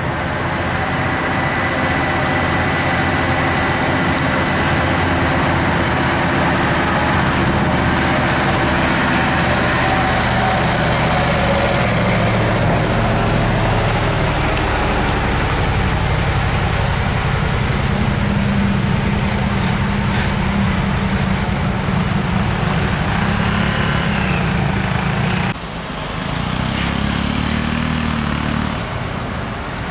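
Diesel trucks driving past on a road, their engines running steadily over traffic noise. The sound changes abruptly about 25 seconds in.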